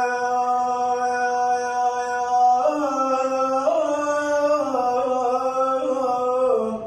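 A solo male voice sings drawn-out Arabic chant notes with no accompaniment. One long held note steps up in pitch about two and a half seconds in and again a second later, then wavers and eases back down before breaking off at the end.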